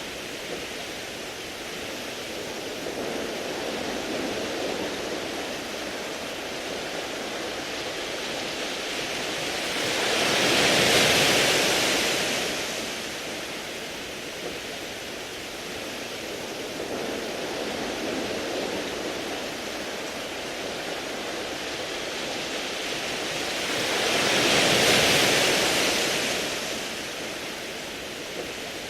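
Sea waves washing over a beach of smooth round pebbles: a steady hiss of surf with two bigger waves about 14 seconds apart, each swelling up and falling away over a few seconds.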